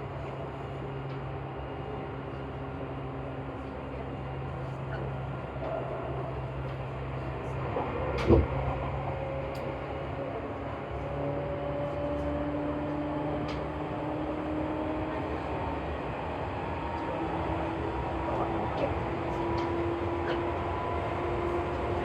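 Inside a Seibu New 2000 series electric train running between stations: steady motor hum and wheel noise, with the motor tones slowly rising in pitch from about halfway through as the train gathers speed. One short sharp knock comes about 8 seconds in.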